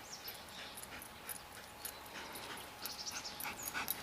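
A dog close by, making quick, short breathy sounds that grow louder near the end.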